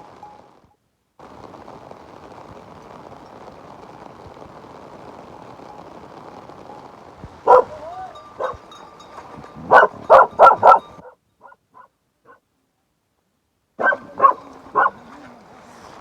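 Steady rain hiss, then a dog barking: two barks about halfway, a quick run of about four, and three more near the end.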